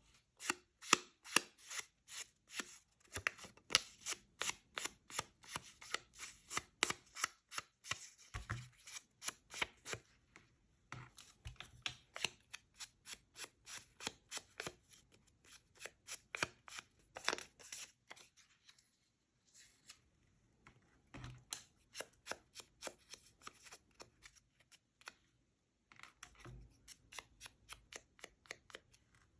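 Hand crafting on paper: quick, sharp strokes, about four a second, in runs broken by short pauses.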